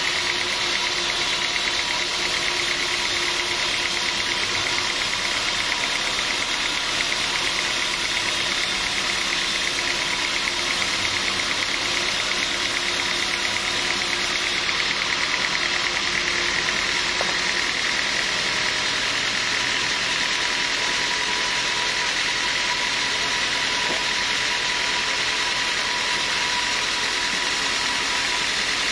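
Sawmill machinery running steadily: a constant mechanical drone with a steady whine that does not change.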